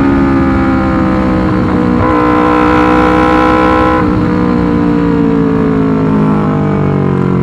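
Yamaha R25 250 cc parallel-twin engine running loud through a Racefit Slash aftermarket exhaust. Its note slides slowly down in pitch, jumps up a little about two seconds in, and changes again about four seconds in.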